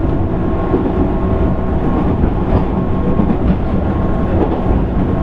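Running sound of a JR 205 series electric train, heard inside motor car MoHa 204-604 while travelling at speed: a steady rumble of wheels on the rails with a faint steady whine from the traction equipment.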